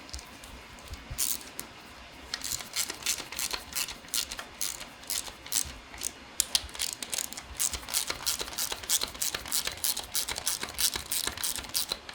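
Ratchet wrench clicking in quick irregular runs as bolts are turned during reassembly of a Porsche 997 Carrera S engine; a few scattered clicks at first, then dense runs from about two seconds in.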